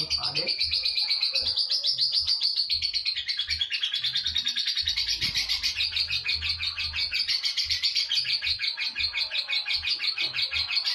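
Lovebird singing a long, unbroken 'ngekek' chatter: a fast, steady run of high-pitched rattling notes that does not pause.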